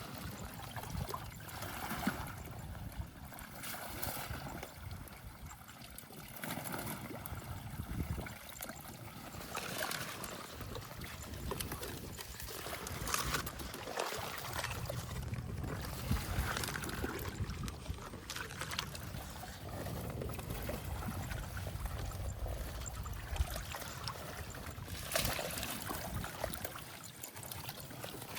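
Water sloshing and trickling in irregular splashes, with a low rumble underneath.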